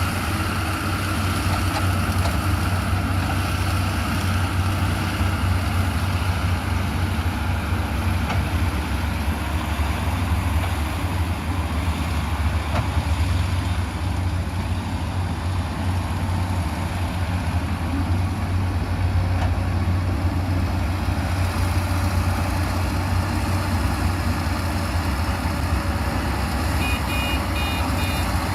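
Heavy diesel engine of construction machinery running steadily with a deep, constant hum. A few short high beeps come near the end.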